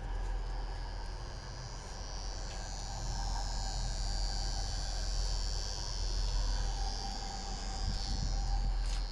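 Electrofusion welding unit running a fusion cycle on HDPE pipe fittings: a steady electrical hum with a high hiss above it.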